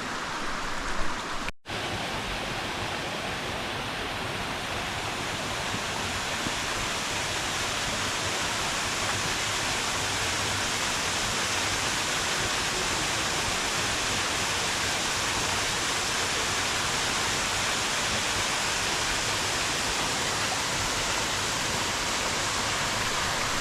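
Waterfall: a steady rush of falling water, briefly cut off about one and a half seconds in.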